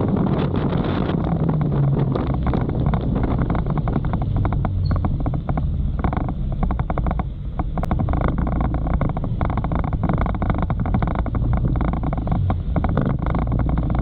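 Motorcycle riding in typhoon rain: wind buffeting the microphone over the steady drone of the engine, easing briefly about six to eight seconds in.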